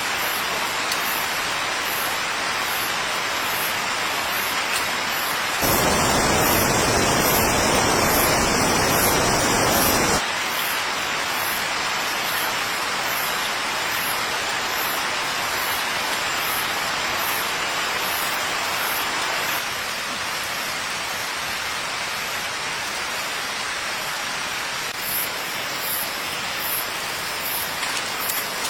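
Steady rain falling, an even hiss. About six seconds in it becomes louder and fuller for about four seconds, then drops back.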